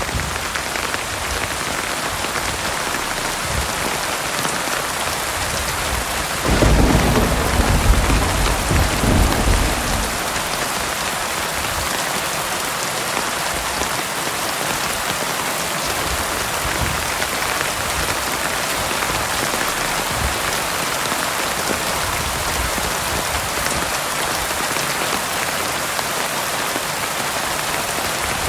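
Heavy rain falling steadily on surfaces, with a roll of thunder about six seconds in that rumbles for some three seconds before fading back into the rain.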